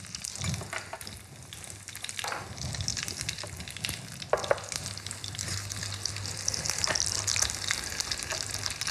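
Breaded cordon bleu sizzling steadily as it shallow-fries in hot oil in a pan, with a few light knocks and clicks of tongs against the pan.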